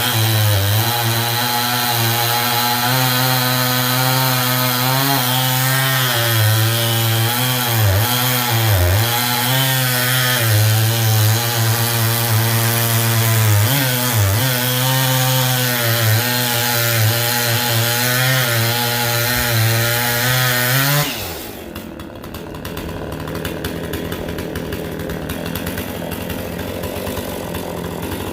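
Two-stroke chainsaw running at high revs with a freshly hand-filed chain, its pitch dipping briefly several times as it is touched lightly into soft maple to take the burrs off the cutters. About 21 seconds in the engine shuts off and winds down, leaving a steady hiss.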